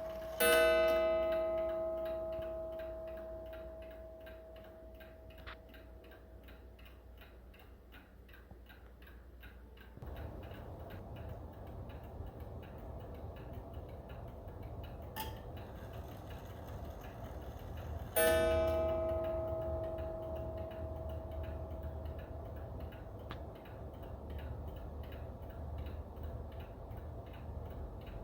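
Seth Thomas beehive mantel clock ticking steadily. Its strike sounds a single ringing note twice, once just after the start and again about two-thirds of the way through, and each note dies away slowly over several seconds. A low hum comes up behind the ticking about ten seconds in.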